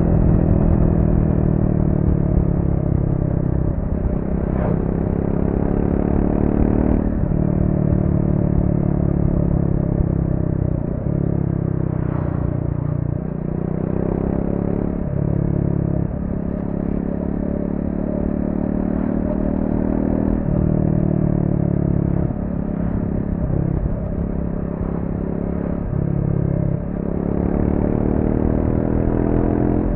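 Triumph Speed 400's single-cylinder engine through its stock exhaust, ridden on the road: the revs climb and drop again and again, with short breaks in the note as the throttle is rolled off and on.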